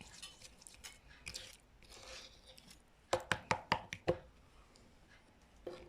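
A utensil stirring a thick powder-and-oil deodorant mixture in a small container: faint scraping, then a quick run of about six taps against the container a little past halfway, and one more tap near the end.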